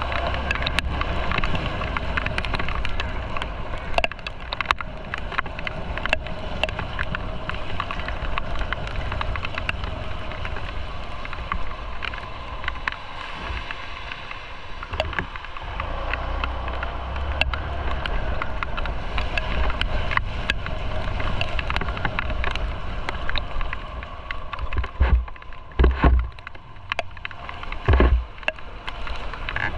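Motorcycle running on the road, heard from the bike: the engine runs steadily under road and wind noise, with low gusts of wind buffeting the microphone that grow heavier near the end.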